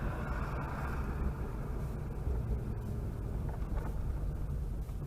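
Chevrolet Chevette running on the road: a steady low rumble of engine and road noise while driving.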